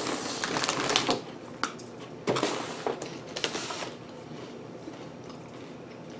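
Crunching of hollow, airy Lay's Poppables white cheddar potato bites being chewed, in two spells of crisp crackling, the second starting about two seconds in.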